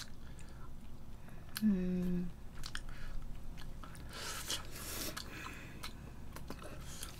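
Fried chicken being bitten and chewed close to the microphone, with scattered small clicks and a longer stretch of chewing noise about four seconds in. A short hummed voice comes about two seconds in.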